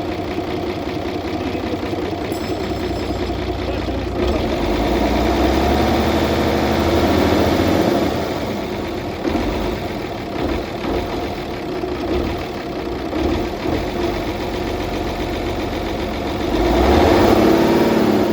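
Mercedes-Benz truck diesel engine running at idle, picking up a little a few seconds in, then revved up near the end.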